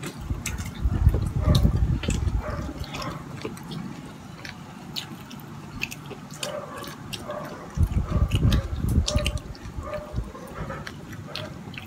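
Close-up wet chewing and mouth smacks of a person eating with his hands, many small moist clicks. There are two spells of low rumbling, about a second in and again about eight seconds in.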